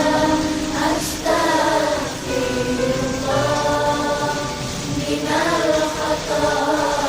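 Vocal music: a voice singing long, wavering melodic phrases over a steady low tone.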